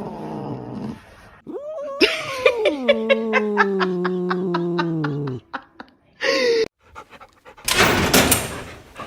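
An animal's long, drawn-out cry that slides down in pitch with a pulsing, rattly quality, followed by a short call and, near the end, a loud rushing noise lasting about a second.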